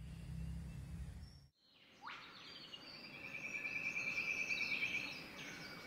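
A low rumble for about a second and a half, then bird calls: a quick rising sweep, a long steady high trill lasting a couple of seconds, and scattered short chirps.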